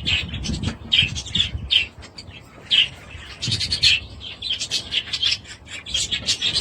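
Budgerigars chattering: many quick chirps and warbling squawks in fast succession, with short pauses.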